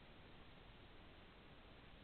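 Near silence: a faint, steady hiss with no distinct sound in it.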